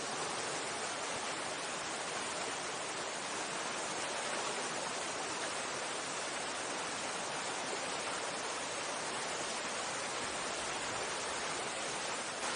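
Steady rush of a mountain stream's flowing water, an even hiss that holds unchanged throughout.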